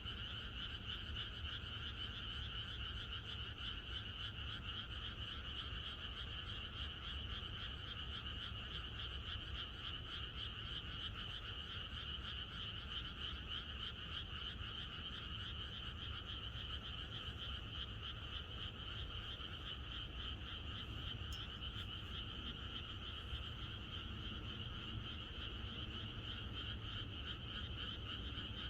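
A chorus of many frogs calling at once, a dense, unbroken croaking with no pauses, over a steady low rumble.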